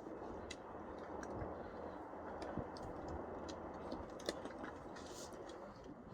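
Two Beyblade tops, Storm Pegasus and Burn Fire Blaze, spinning in battle: a steady whir with scattered sharp clicks as they knock together.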